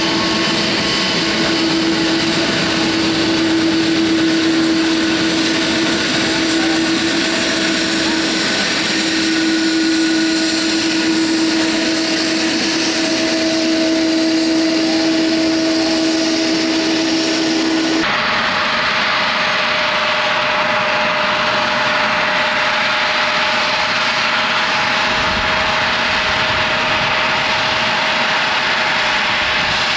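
Jet airliner engines running close by: a loud, steady rush with whining engine tones held over it. About two-thirds of the way through the sound changes suddenly to a brighter rush with a single steady tone.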